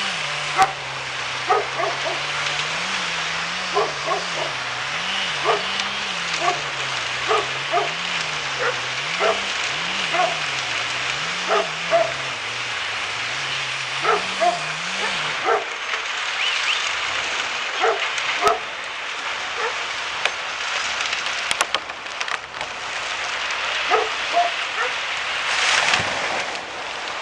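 Dog barking repeatedly in short, separate barks over a steady hiss, with a low wavering hum during the first half.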